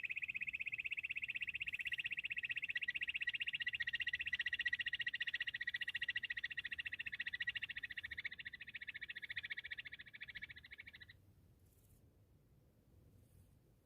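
Bush quail call: a rapid, unbroken high-pitched trill that fades over its last few seconds and cuts off suddenly about eleven seconds in.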